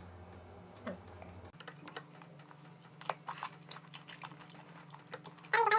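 Crunching and chewing of crisp raw green mango close to the microphone: a scatter of short, sharp crunchy clicks. A short high-pitched cry comes near the end.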